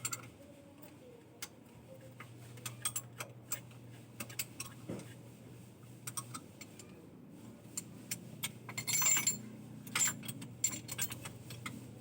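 Irregular sharp metallic clicks and clinks, as of tools and engine parts being handled, over a low steady hum. A louder jangling cluster comes about nine seconds in.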